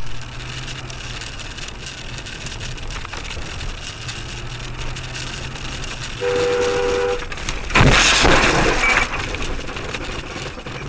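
Road noise inside a moving vehicle with a low engine hum. About six seconds in, a horn sounds one steady blast of about a second. A loud noisy crash follows, typical of a road collision.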